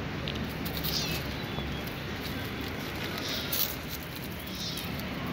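Outdoor ambience with birds calling briefly a few times over a steady background hiss.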